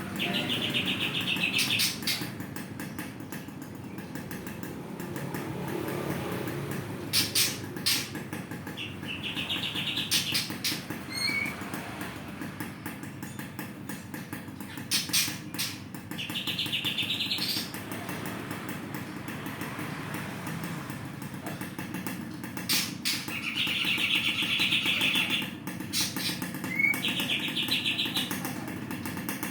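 Songbird calling: short, rapid high-pitched trills repeated every several seconds, with sharp high chips between them, over a low steady rumble.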